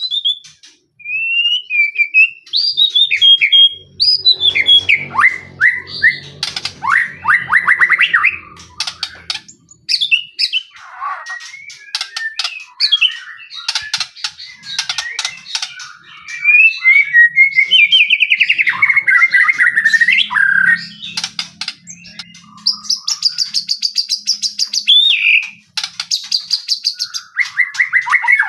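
White-rumped shama singing a long, varied song of whistled phrases, fast trills and rapid dry clicking notes, one phrase after another with short pauses between.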